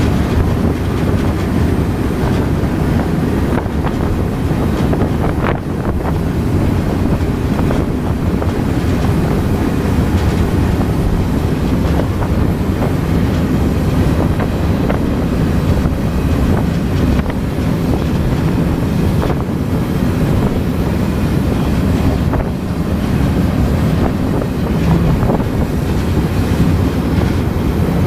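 Steady rumble of a moving freight train heard from on board: steel wheels running on the rails with a few faint clicks, and wind buffeting the microphone.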